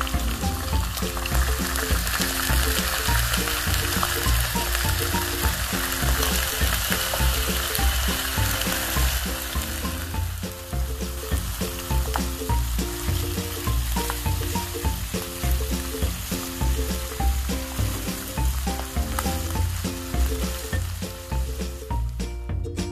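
Food sizzling in a pan with a steady hiss, louder in the first half and fading down about ten seconds in, under background music with a steady, repeating bass line.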